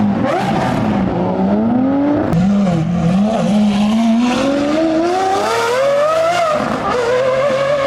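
A car held at high revs during a burnout or skid, engine pitch wavering and then climbing steadily for several seconds, dipping briefly near the end, over the hiss of spinning tyres.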